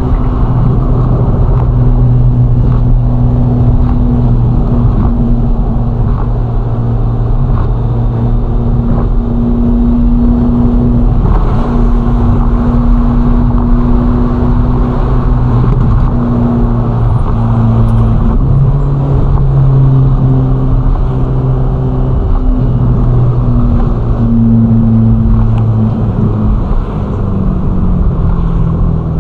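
Ferrari Roma's twin-turbo V8 running steadily at cruising revs, heard from inside the car. Its note holds mostly level with small shifts up and down and drops a little near the end.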